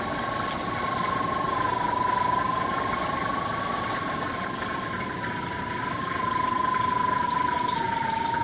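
Electronic pipe locator giving off a steady tone that drifts slightly up and down in pitch as it tracks the sewer camera head's signal under the building, over a constant background hum.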